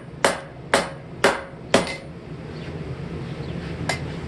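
Hand hammer striking the steel hammer head to straighten it: four blows about two a second, a pause, then one more blow near the end, over a steady low hum.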